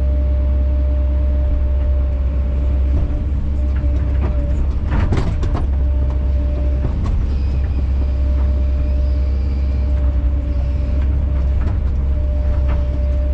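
Kobelco SK210 excavator running steadily with a thin steady whine over its engine drone. A cluster of sharp knocks comes about five seconds in, with a few lighter clicks later.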